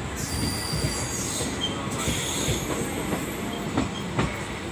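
Indian Railways passenger train running on the track, heard from the open door of a coach: a steady rumble of wheels on rails with scattered sharp clicks over rail joints and points, and a thin high whine in the first second or so.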